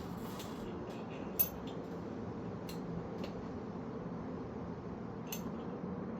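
A few scattered metallic clinks and taps of hand tools and bicycle parts being handled, the sharpest about a second and a half in, over a steady low hum.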